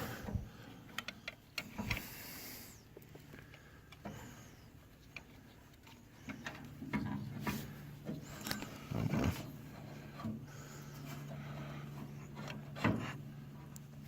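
Scattered light clicks, taps and scrapes of hand tools and metal parts being handled as the distributor is worked off a 1942 Ford 9N tractor engine. A faint low steady hum comes in about six seconds in.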